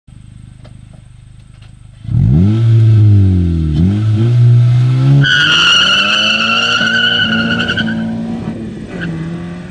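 2012 Honda Civic Si's 2.4-litre four-cylinder, fitted with an Injen axle-back exhaust and a DC Sports short ram intake, idling, then launching hard about two seconds in with a loud rising rev, a quick upshift under two seconds later, and pulling away in the next gear, fading as it goes. A steady high whine joins in about five seconds in and lasts around three seconds.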